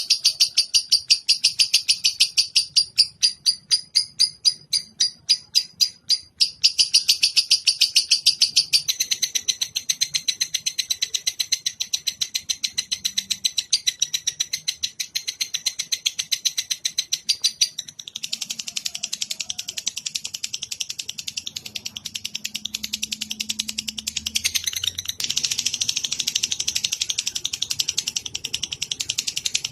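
Recorded songbird calling in a long, unbroken chatter of rapid high chirps, several a second, with the pattern of the phrases changing twice.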